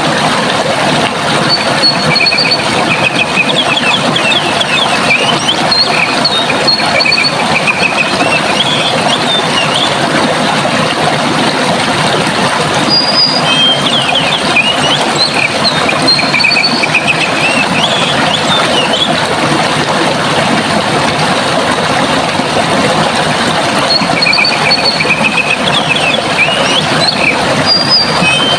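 Steady rush of running water with a songbird singing bursts of high chirps and trills, heard in three spells about ten seconds apart.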